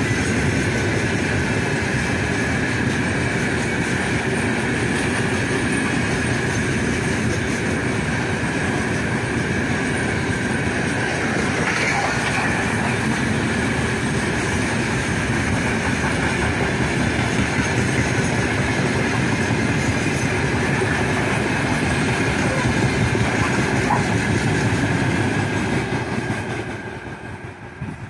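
Heavy loaded freight wagons of a long freight train rolling past close by: a steady rumble of wheels on rail with a steady high ringing tone above it. The sound falls away sharply near the end.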